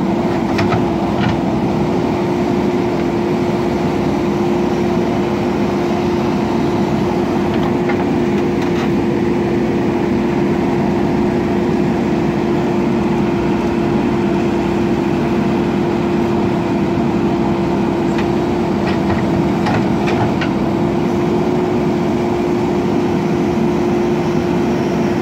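JCB backhoe loader's diesel engine running at steady revs, with a few faint clicks about a second in and again about three-quarters of the way through.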